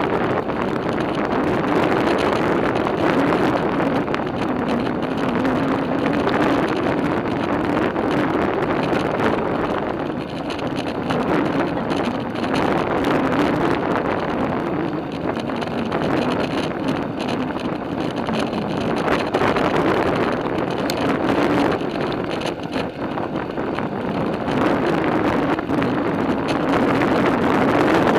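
Wind rushing over the microphone of a moving bicycle, with a steady hum of its tyres rolling, wavering slightly in pitch.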